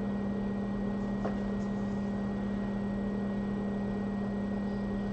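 Steady low electrical hum with a faint hiss underneath, and one faint tick about a second in.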